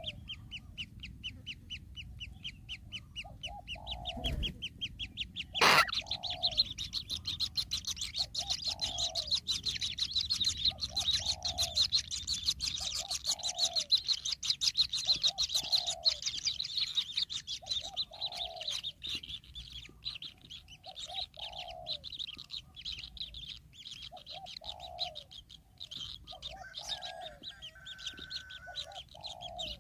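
Birds calling: a fast, steady ticking chatter high in pitch, over a lower short call repeated about every one and a half seconds. A single sharp knock sounds about six seconds in.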